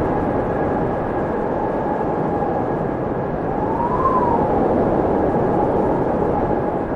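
Wind blowing steadily with a full rushing noise. A whistling tone rises and falls once, about halfway through.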